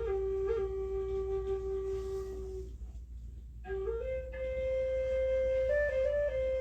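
Flute playing slow, long held notes with brief grace-note flicks. It pauses for about a second midway, then resumes on a higher held note.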